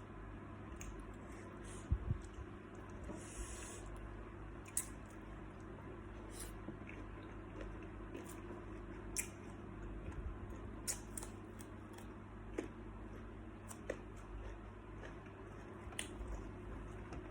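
Quiet eating sounds of salt-baked shrimp: scattered small clicks and crackles of shell being handled and chewed, over a low steady hum.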